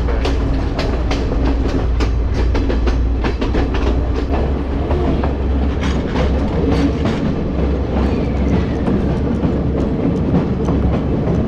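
Passenger train running along the track, heard from an open carriage doorway: a steady low rumble of the carriage with irregular clicking of the wheels over the rail joints.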